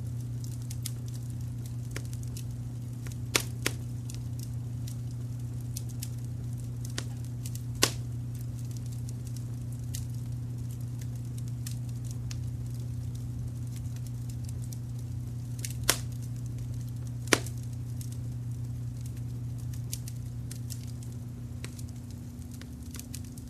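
Wood fire crackling with scattered small ticks and a handful of louder sharp pops, over a steady low rumble of brown noise.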